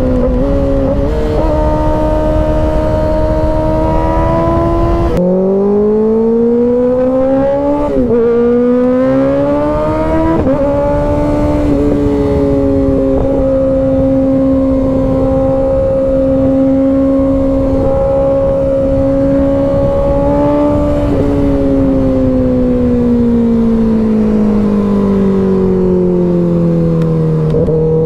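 Kawasaki ZX-6R 636 inline-four engine with an M4 exhaust, under way: its pitch steps down and climbs again several times in the first ten seconds and then holds steady at a cruise. Near the end the pitch falls as the bike slows, then starts rising again. Heavy wind rush underneath for the first five seconds.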